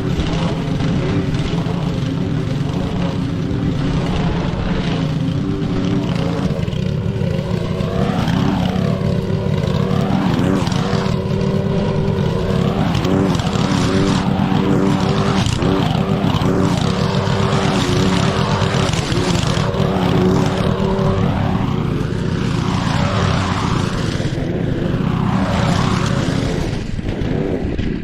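Petrol lawn mower engine running steadily, its tone sweeping gently as the mower moves about.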